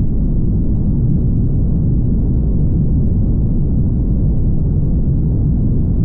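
Steady low rumble of a car driving at highway speed: tyre and wind noise with no change in level.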